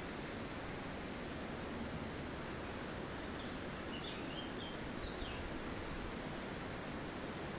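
Steady wind rustling through forest trees. A handful of short, high bird chirps come in from about two seconds in to past the middle.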